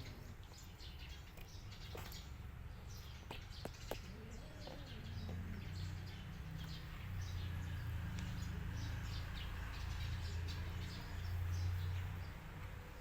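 Cats eating, with many small chewing and crunching clicks and a low rumble that swells from about five seconds in.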